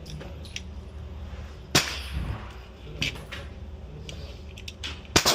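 Gunshots at an outdoor shooting range: one sharp crack with a short echo a little under two seconds in, another about a second later, and two shots in quick succession near the end.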